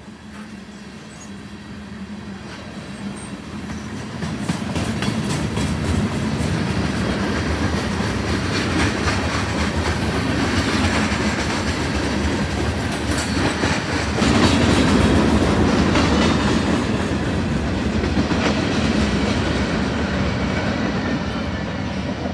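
Freight train cars rolling past, wheels clacking over the rail joints amid a steady rumble. It grows louder about four seconds in and stays loud, easing a little near the end.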